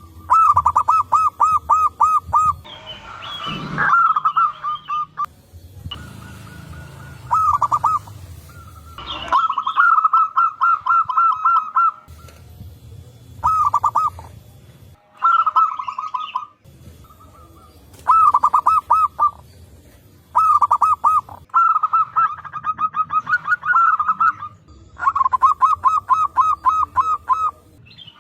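Zebra doves (perkutut) cooing: about ten bouts of quick, staccato cooing notes, one after another with short gaps, as if birds are answering each other.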